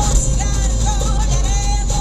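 Music with singing playing from a radio, heard through an SJ1000 action camera's microphone over a steady low rumble.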